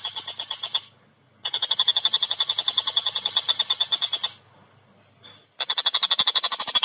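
Stork-billed kingfisher (tengkek buto) giving its rapid chattering call, a fast run of repeated high notes, about eight to ten a second. It breaks off twice for about a second, then starts again near the end.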